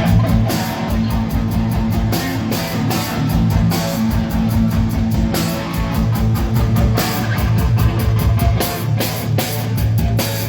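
Rock band playing live, guitar-led, with a steady beat and no singing.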